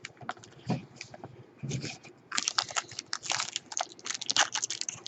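Trading cards and their plastic and foil packaging being handled: a run of quick crinkling and clicking, sparse at first and busier from about two seconds in.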